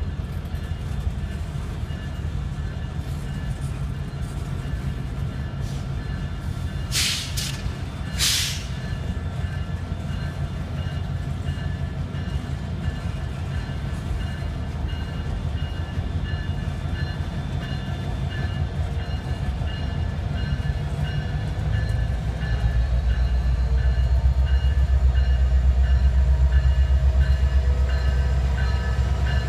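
Freight train rolling slowly past, its boxcars rumbling on the rails, with two short bursts of hiss about seven and eight seconds in. From about 22 seconds in, the deep rumble of a diesel-electric locomotive grows louder as it comes alongside.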